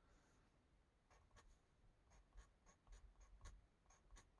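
Faint, quick strokes of an Ohuhu alcohol marker tip rubbing across a colouring-book page, starting about a second in at roughly three strokes a second.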